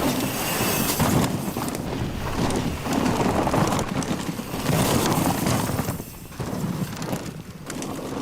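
Mountain bike being ridden fast over rough ground: tyre noise and rattling from the bike, with uneven surges and two short lulls near the end.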